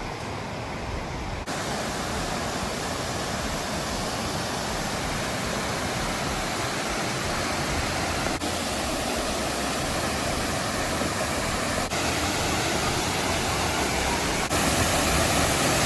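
Steady rushing water of a waterfall cascade, growing louder and stepping up in level a few times.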